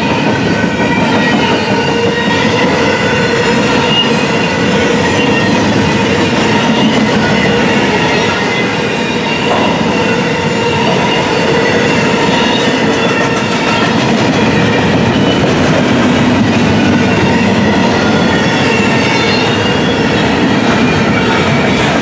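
Double-stack intermodal well cars rolling past at a steady pace: a loud, continuous rumble of steel wheels on rail with wavering high-pitched wheel squeal over it.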